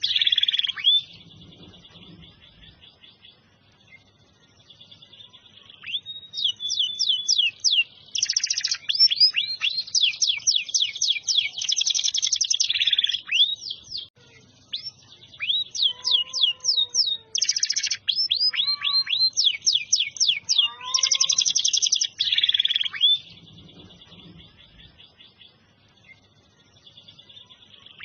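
Domestic canary singing: long phrases of rapid, repeated high notes and fast trills, broken by two quieter spells of soft, steady trilling.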